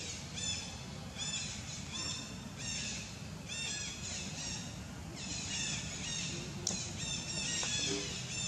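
Birds calling in a steady series of short, arched chirps, roughly one or two a second, over a low steady background rumble. There is one sharp click about two-thirds of the way through.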